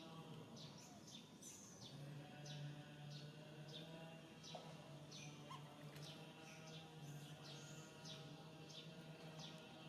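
Faint, rapid high-pitched animal chirps, many short downward-sweeping notes a second, over a low steady hum.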